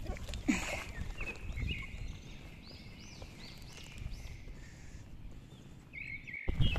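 Short chirping calls of small birds repeating every half second or so, over a low rumble of wind and handling on the microphone, with a brief louder rustle about half a second in.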